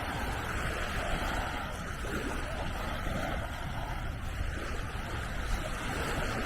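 Mediterranean sea waves washing onto the beach, a steady wash of noise, with wind rumbling on the microphone.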